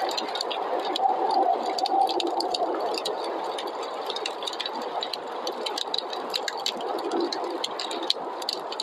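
Wood fire crackling, with frequent small snaps and pops, over a steady rushing of snowstorm wind.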